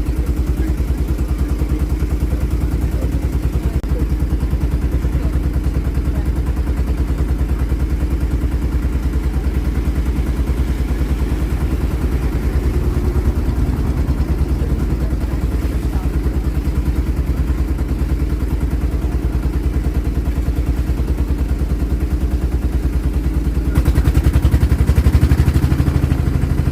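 Tour boat's engine running steadily with a low, even throb; it grows louder about 24 seconds in.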